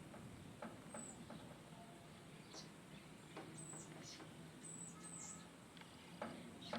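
Faint, high, short chirps from small birds, repeated several times at irregular intervals, with a few sharp clicks in between.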